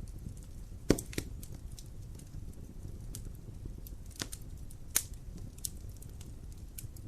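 Wood fire in a fireplace crackling: irregular sharp pops and snaps over a low steady rumble of the flames, with the loudest pop about a second in.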